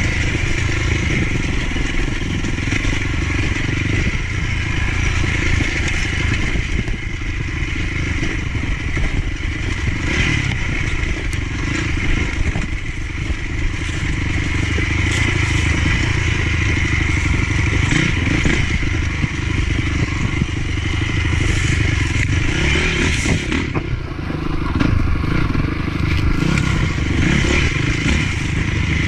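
Motocross dirt bike engine running continuously while being ridden, with clattering and scraping noise over it. It eases briefly about three-quarters of the way through.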